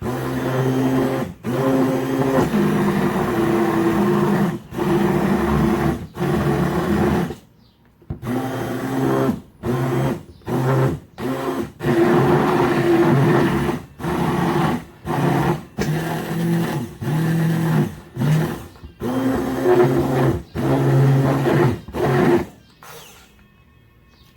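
Electric blender motor running in a series of on-off pulses, some a few seconds long and many under a second, its pitch shifting slightly from run to run, as the cooked cream filling is blended smooth; it stops near the end.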